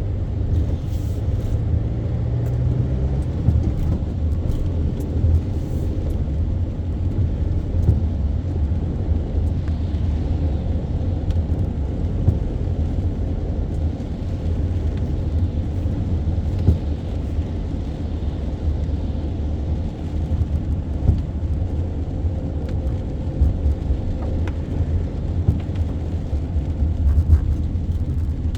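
A car driving, heard as a steady low rumble of engine and road noise with occasional small clicks.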